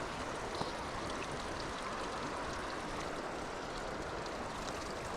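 Creek water running steadily, an even wash of moving water.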